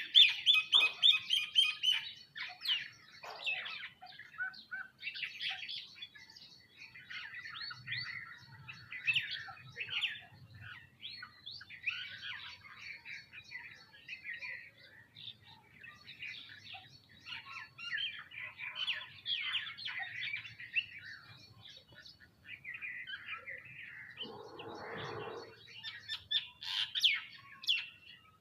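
A flock of sparrows and mynas chirping continuously, many overlapping short calls, loudest at the start. A brief rustling burst comes about 24 seconds in.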